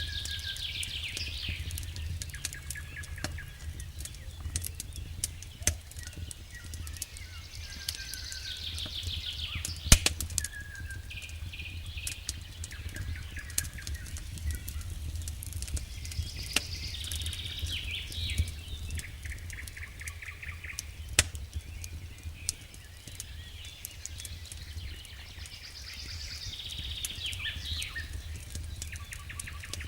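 Wood fire crackling in a fireplace, with scattered sharp pops (the loudest about ten seconds in) over a steady low rumble. Bird chirping phrases come and go about every eight seconds.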